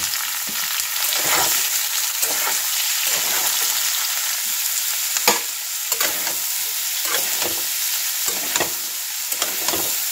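Vegetables frying in hot refined oil in a kadai: a steady sizzle, with stirring strokes scraping through them every second or so and one sharper clack about five seconds in.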